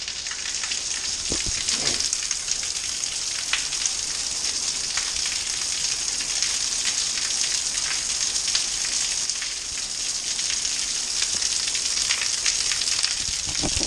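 Heavy rain falling steadily: a dense, even hiss with scattered ticks of drops.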